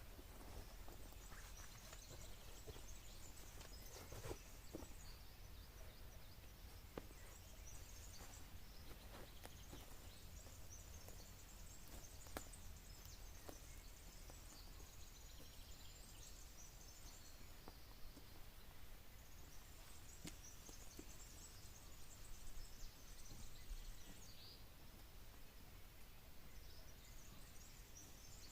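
Faint outdoor ambience with distant birdsong coming in several stretches of high twittering, over a low steady rumble, with a few scattered light clicks.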